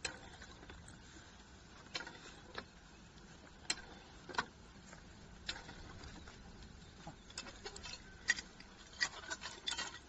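Scattered light clicks and knocks from drilling gear being handled, most likely the rod puller and drill rods of a portable core drilling machine. The knocks are irregular and come more often in the last few seconds.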